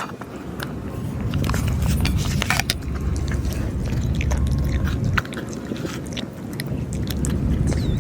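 Stray cats eating the food put out for them, chewing with scattered small clicks and crunches over a steady low rumble.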